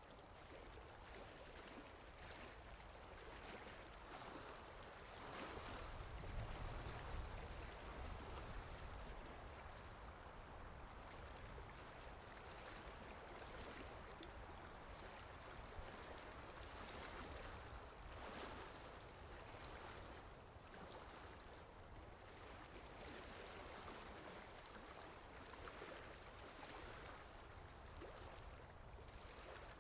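Steady rainfall, an even faint hiss of falling rain, with a low rumble swelling briefly about six seconds in.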